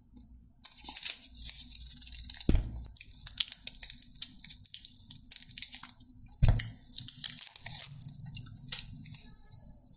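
Close-mic eating: biting into and chewing crunchy food, with irregular crackling and two dull thuds, the first about two and a half seconds in and the second about six and a half seconds in.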